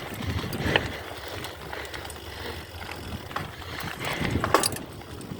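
Bicycle ridden over a rough, muddy dirt trail, its chain and frame rattling, with irregular sharp clicks and knocks, louder about a second in and again about four seconds in.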